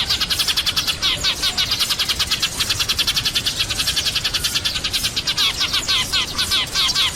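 A flock of sparrows chirping in a continuous, rapid chatter of many overlapping chirps a second.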